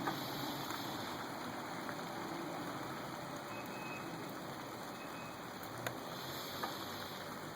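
Faint steady hiss of background noise, with a few soft ticks.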